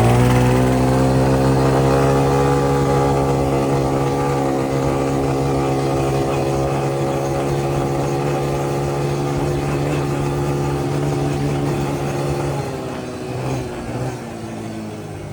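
Yamaha Grizzly 125 youth ATV's small single-cylinder four-stroke engine revving up as it pulls away, then running at a steady high speed. About 13 seconds in the engine speed drops, with a couple of short blips of throttle.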